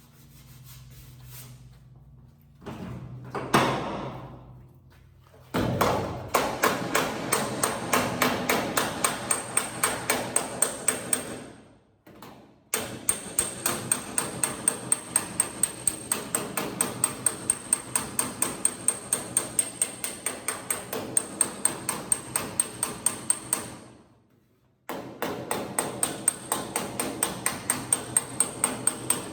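Hand hammer striking the sheet-metal bedside of a squarebody Chevy truck bed in rapid, even blows, about three a second, each with a high metallic ring, in three spells with two short pauses: knocking down a high spot in the panel.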